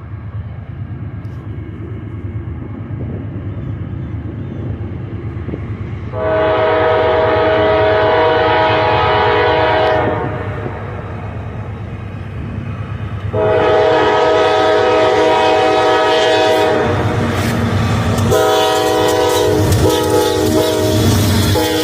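A diesel freight locomotive approaches with a low engine rumble, then sounds its multi-tone air horn in long blasts: two of about four seconds each, and a third starting near the end. Rail clatter joins the horn as the train draws level.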